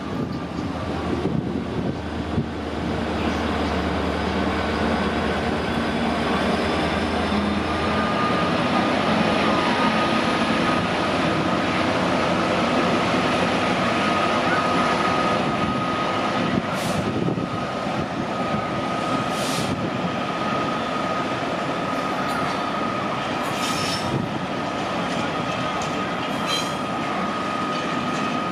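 A train running on the rails with wheels squealing: a steady high squeal sets in about eight seconds in and holds, with a few brief sharper screeches in the latter half.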